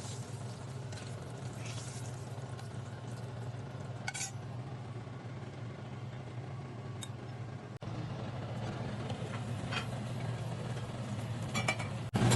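Stovetop cooking: a steady low hum under faint sizzling, with a few light clinks of a utensil against a pan or dish.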